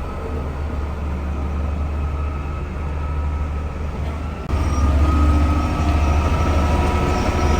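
Heavy diesel construction machinery running, a steady low engine rumble with a faint whine over it, which suddenly becomes louder about halfway through.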